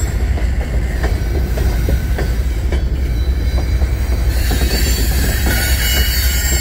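Empty coal train's open-top coal cars rolling past close by: a steady low rumble with steel wheels clicking over the rail joints. A high hissing squeal from the wheels on the rail comes in about four seconds in.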